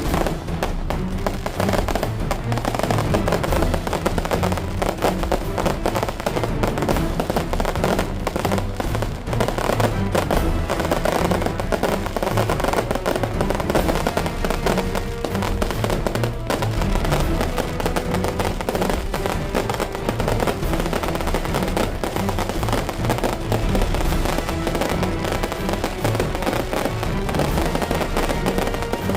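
Firecrackers going off in a dense, continuous crackle, with music playing underneath.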